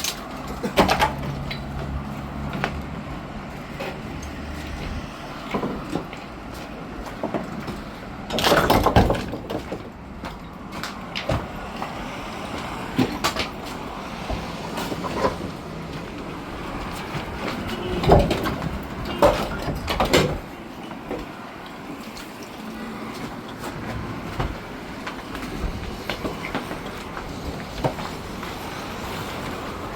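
Kia truck driving on a rough off-road track: a steady engine hum under frequent knocks and rattles from the body. There is a loud clatter of jolts about eight seconds in and several more sharp knocks around eighteen to twenty seconds in.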